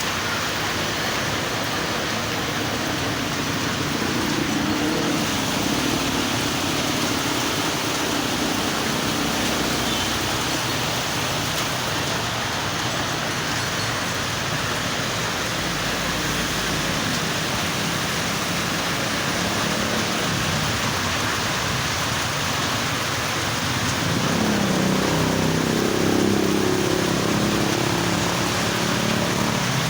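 Medium rain falling steadily, a continuous hiss. A low rumble swells and fades twice, about five seconds in and again near the end.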